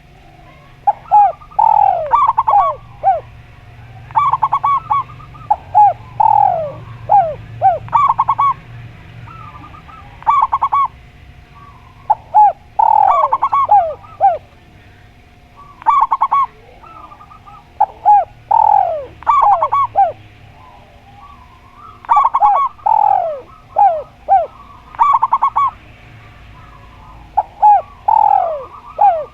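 Spotted dove and zebra dove cooing, in repeated phrases of short, falling notes that come every second or two, over a faint steady hum.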